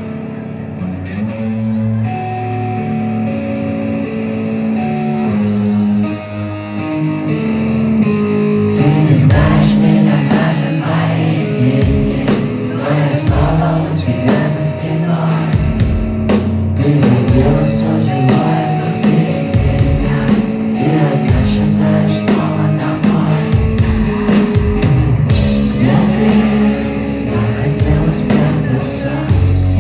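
Live rock band playing a song with singing: held guitar and keyboard chords open it, then drums and the full band come in about eight seconds in.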